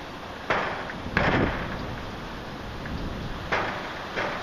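Heavy rain falling steadily in a thunderstorm. It is broken four times by short, sudden louder surges of noise that die away within about half a second.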